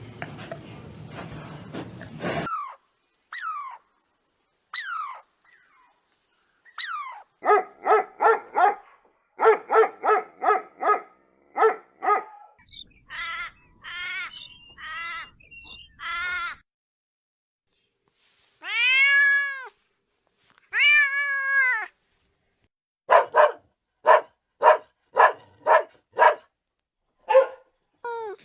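Cats meowing. After a couple of seconds of noise, there are runs of short, repeated mews, two longer meows that rise and fall in pitch about two-thirds of the way through, then more short mews.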